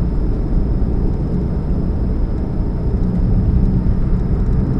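Steady low rumble and hum of a 2013 Chevrolet Spark in motion, the humming that the owner puts down to a leaking catalytic converter.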